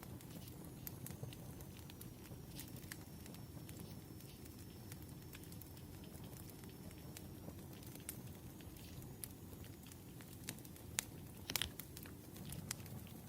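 Light scattered clicks and taps of a pen and stationery being handled on a desk while writing a letter, over a low steady hum, with a couple of sharper clicks near the end.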